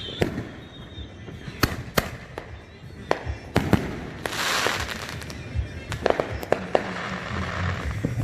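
Fireworks going off: a string of sharp bangs at uneven intervals, with a dense crackling hiss about halfway through.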